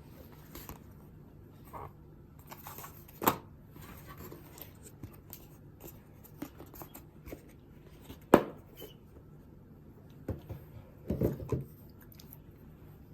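Hands handling earbuds and their packaging: light rustles and taps, with two sharp clicks about three and eight seconds in and a short burst of knocks near the end.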